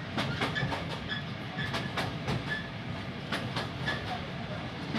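Railway passenger coach running along the track, a steady low rumble with irregular clicks of the wheels over rail joints, heard from inside the carriage.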